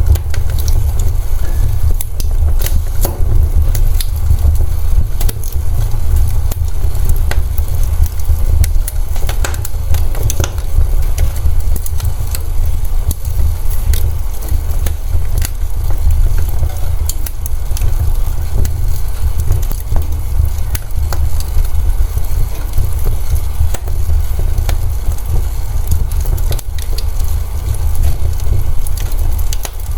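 Wood fire in a fireplace crackling, with frequent irregular pops and snaps over a steady low rumble, which is the loudest part.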